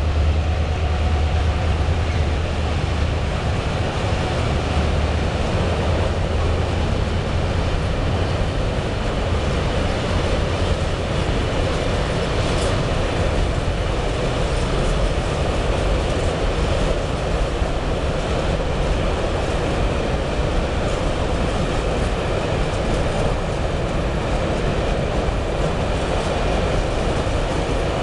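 Freight train wagons rolling past in a steady rumble, with a low hum that fades over the first several seconds.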